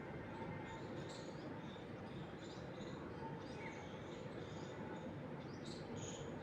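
Birds chirping with many short, high calls scattered throughout, over a steady rustle of wind moving through trees.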